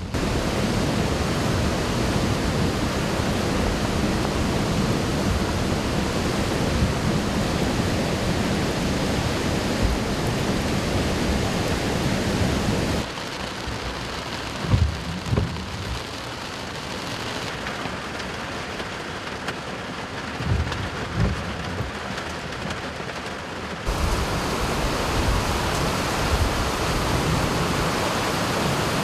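Heavy rain pouring down in a steady hiss, with a few short low thumps in the middle. The level drops about 13 seconds in and rises again about 24 seconds in.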